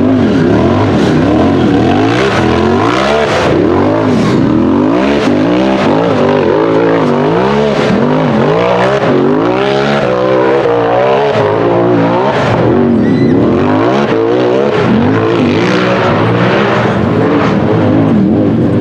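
UTV engine revving hard as the throttle is worked on and off, its pitch swooping up and down about once a second on a hill-climb run.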